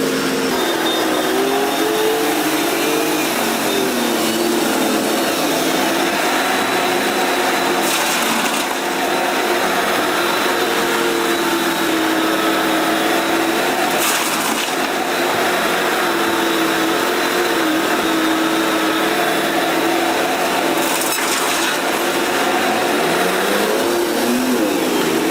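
Heavy machine's engine running steadily, its pitch wavering up and down under load, with short hisses three times.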